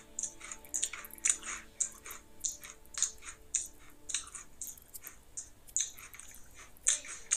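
A person chewing a mouthful of Doritos tortilla chips: a steady run of crisp crunches, about three a second.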